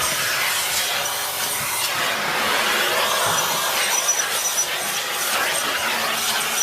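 Vacuum cleaner running, a steady rushing of air with a faint high whistle that comes and goes.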